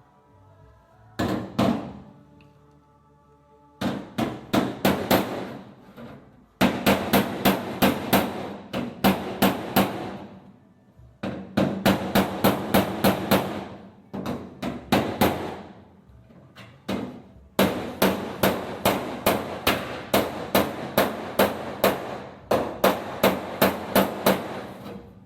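Body hammer striking a welded-in steel patch on a car quarter panel against a hand-held dolly, planishing the weld smooth. The blows come in quick runs of about three a second, with short pauses between runs.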